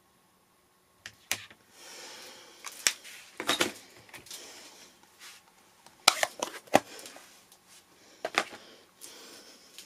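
Card stock and crafting tools handled on a tabletop: a run of sharp taps and clicks over paper rustling and sliding, beginning about a second in.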